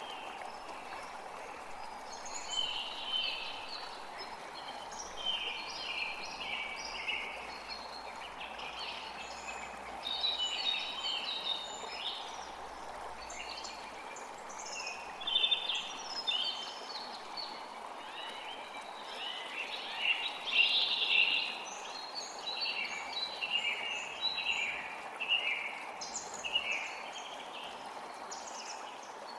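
Forest creek running steadily under songbirds chirping and singing, with many short, overlapping song phrases.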